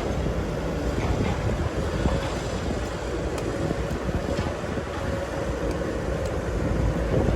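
Excavator running: a steady low engine rumble with a steady whine above it, a little louder near the end.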